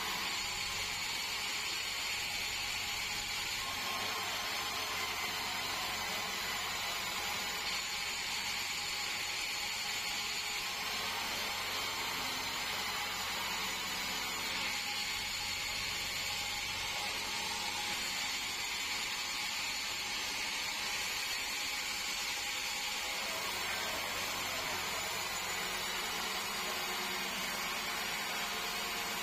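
Band sawmill running steadily: a constant mechanical noise at an even level, with no breaks or impacts.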